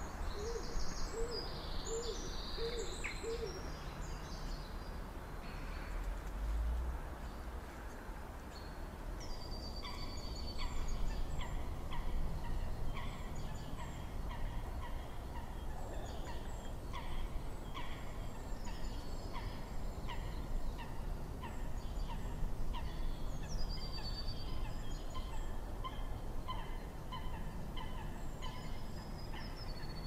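Birds calling in woodland: a few low repeated notes in the first seconds, then from about nine seconds in a steady series of short repeated calls, roughly one to two a second, with a short falling high-pitched phrase from another bird now and then.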